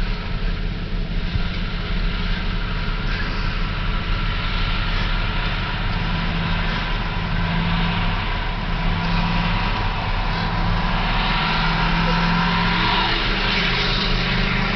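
Pickup truck engine running hard in a burnout, with a rushing hiss of spinning tyres building through the second half.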